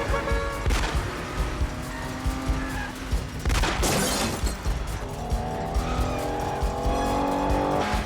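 Car engines revving hard in a high-speed chase, with tyres squealing and a loud rush of noise around four seconds in; from about five seconds in an engine's pitch climbs steadily as it accelerates.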